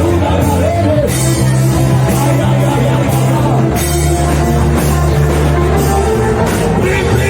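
Live worship band playing loud music with a drum kit, held bass notes shifting to a new chord every second or two.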